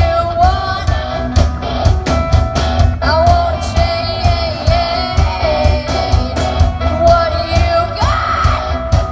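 Rock music with a steady drum beat, bass and guitar, and a singing voice carrying the melody.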